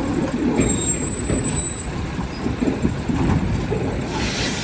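Heavy diesel vehicle engine running, a rough, dense low rumble, with a hiss coming in near the end.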